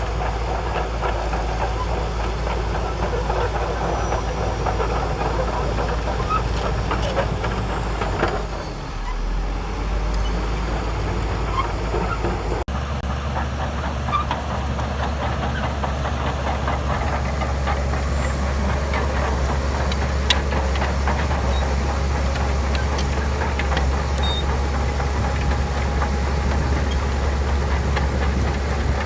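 Shantui DH17C2 crawler bulldozer's diesel engine running under load, with the clatter of its steel tracks as it pushes sand. The engine note changes abruptly about halfway through.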